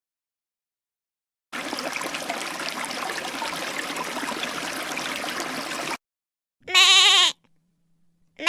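A steady rushing noise for about four seconds, then after a short gap two loud bleats with a wavering, quavering pitch, each about half a second long.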